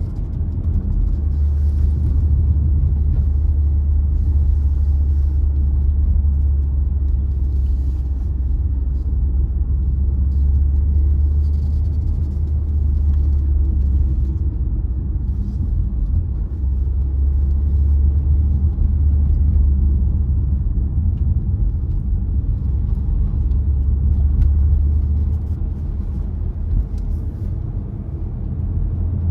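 Car driving along a road: a steady low rumble of engine and tyres, with little change in pitch or level.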